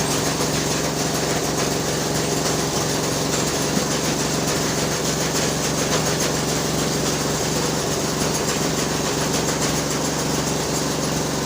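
A small engine or motor running steadily at an even speed, a constant hum with a hiss over it.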